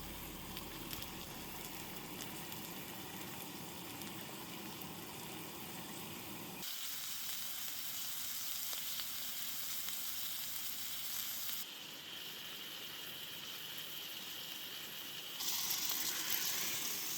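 Food sizzling as it fries, a steady hiss that changes abruptly about 7, 12 and 15 seconds in.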